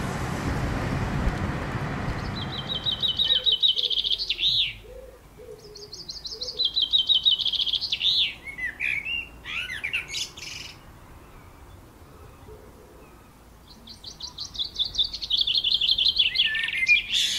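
A songbird singing three long phrases, each a fast trill of repeated notes that ends in a quick flourish. Under the first phrase a steady rushing noise fades out about three seconds in.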